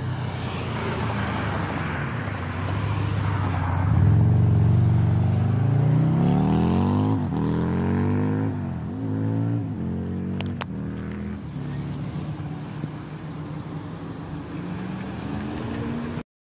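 A road vehicle's engine accelerating up through its gears: its pitch climbs, then drops at each shift, several times in a row. It is loudest about four to seven seconds in and settles to a steadier drone before the sound cuts off near the end.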